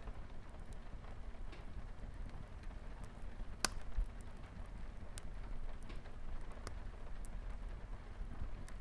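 Wood fire crackling with scattered sharp pops, the loudest about a third of the way in, over a steady patter of light rain on a window.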